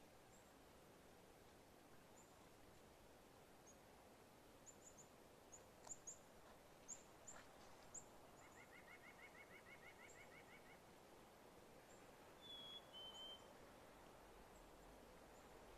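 Faint calls of small songbirds over a quiet outdoor hush: scattered high, thin chips, a rapid trill lasting about two seconds around the middle, and two short whistled notes a little later.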